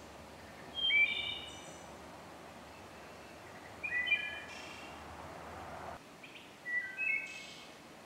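A songbird singing three short phrases of a few clear whistled notes, about three seconds apart, over a steady hiss of background noise.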